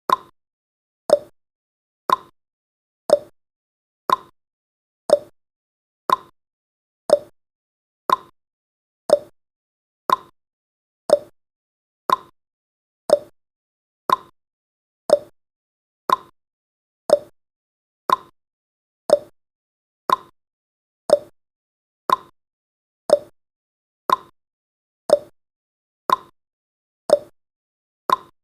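Clock ticking sound effect marking the seconds of a countdown timer: one sharp tick a second, alternating higher and lower in pitch like a tick-tock.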